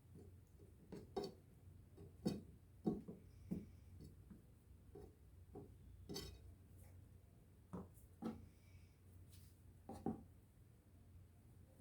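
Kitchen handling: scattered light knocks and clinks of dishes and utensils being moved and set down, irregular, over a faint low hum.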